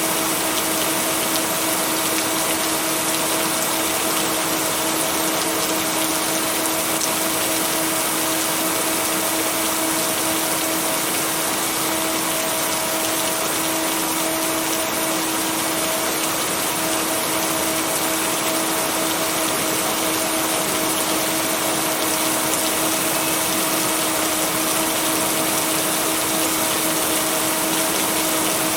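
Steady hiss of rain blended with white noise, with steady low hum-like tones from binaural beats held underneath and no thunder claps.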